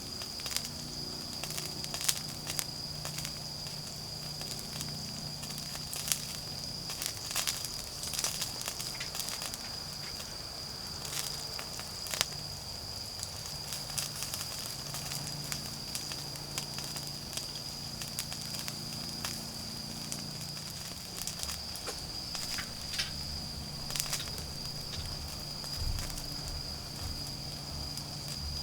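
Wood fire crackling, with irregular sharp pops, over a steady high trill of autumn insects and a faint low hum.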